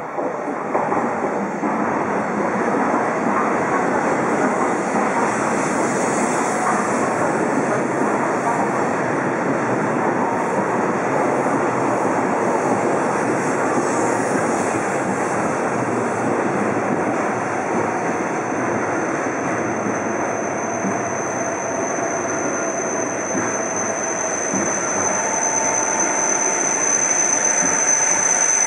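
A Shinkansen E7 series train moving along a Tokyo Station platform, a loud, steady rushing noise that swells at the start. A thin high whine comes in about twenty seconds in and holds.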